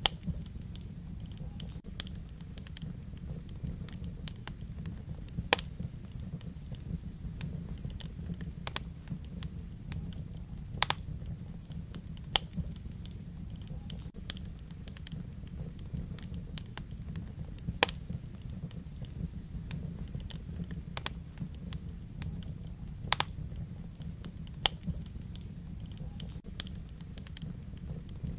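Wood fire in a fireplace crackling: irregular sharp pops and snaps, a dozen or so standing out loudly, over a steady low rumble of the burning flames.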